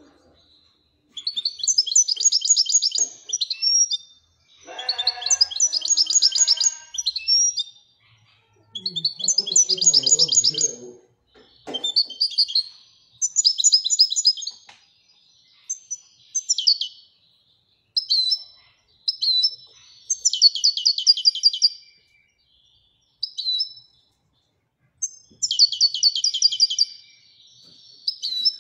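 Moroccan goldfinch singing in the Widani song style: repeated phrases of rapid, high twittering trills, each one to three seconds long, broken by short pauses.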